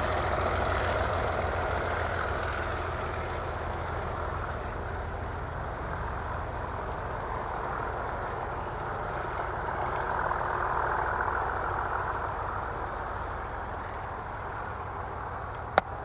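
Class 37 diesel locomotives' English Electric V12 engines working as they haul a train away, a steady heavy rumble that slowly eases, swells briefly about two-thirds through, then fades. A single sharp click near the end.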